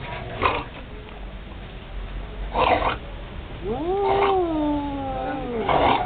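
A cat yowling in one long drawn-out call that rises and then slowly falls, with short rough noisy bursts just before and after it.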